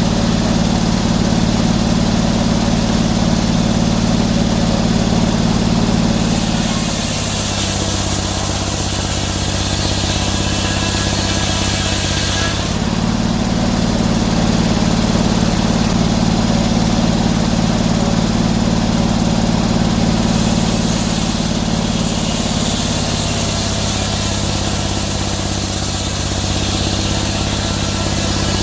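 Sawmill engine running steadily, its note dropping about 7 seconds in and again about 21 seconds in, with a high hiss rising at those points, which fits the saw taking load as it cuts oak.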